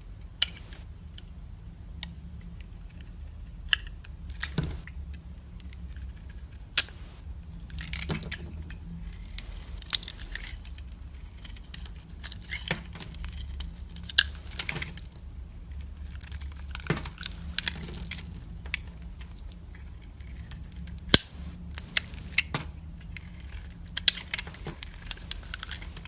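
Knife cutting and scraping dry soap: scattered crisp crunches and sharp clicks over a low steady hum.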